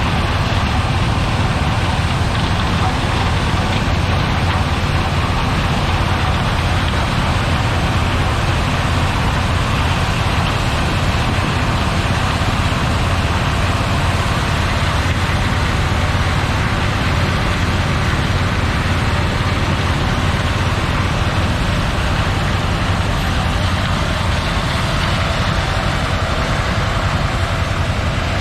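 Heavy diesel farm machinery running steadily: a constant low engine drone with an even mechanical rush over it.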